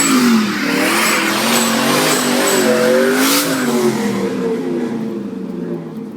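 Twin-turbo Fox-body Mustang engine revving hard, its pitch swinging up and down over a dense hiss typical of spinning tires in a burnout. It fades over the last couple of seconds.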